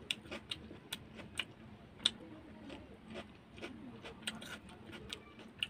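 Close-miked chewing of pork curry and rice: irregular wet mouth clicks and smacks, two or three a second, one sharper smack about two seconds in.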